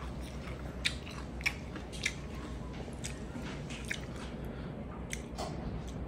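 Close-miked chewing of a mouthful of kinilaw (raw fish cured in vinegar) and rice, with a string of sharp mouth clicks and smacks, loudest in the first two seconds, over a low steady hum.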